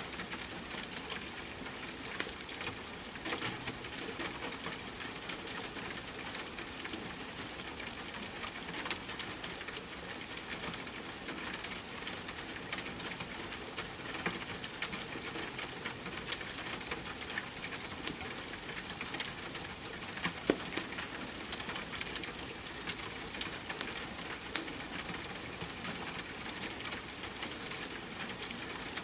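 Steady rain hiss mixed with the scattered crackles and pops of a wood fire, with one sharper pop about two-thirds of the way through.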